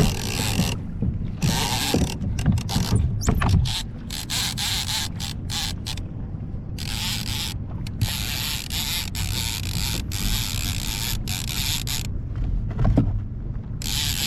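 Fishing reel clicking and ratcheting in rapid, irregular bursts as a hooked coho salmon is brought in.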